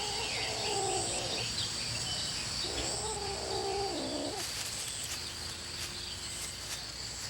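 Manx cat giving two drawn-out, wavering low yowls during courtship pursuit, one ending about a second in and another from about three to four and a half seconds. Steady cricket chirping runs underneath.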